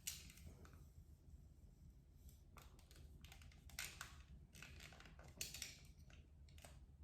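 Faint, irregular clicks and rustles from a curling iron and hair being handled, over quiet room hum.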